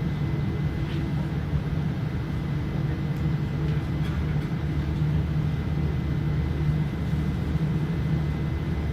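Steady low rumble and hum of airliner cabin noise inside a Boeing 787-9, with a faint steady high tone over it.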